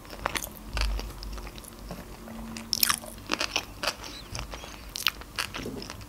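Close-miked chewing of a mouthful of sushi roll: scattered wet mouth clicks and smacks, with a sharper click about three seconds in.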